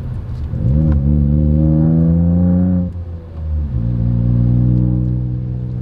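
Ford Fiesta Zetec S EcoBoost engine through a Cobra cat-back performance exhaust, heard from inside the cabin. It pulls up in revs for about two seconds, dips briefly at a gear change about three seconds in, then settles to a steady drone at cruising speed.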